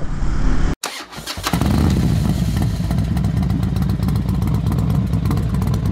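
Bajaj Pulsar motorcycle's single-cylinder engine starting up about a second in, then running steadily with a rapid, even pulse.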